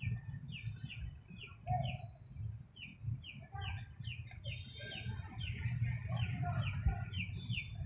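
A bird chirping: a quick run of short, high, falling chirps, about three a second, over a steady low rumble.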